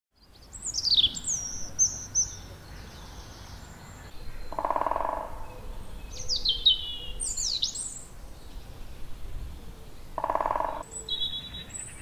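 Birdsong in woodland: high, whistled, falling phrases from songbirds in two spells, with a lower, shorter call twice, about five seconds apart.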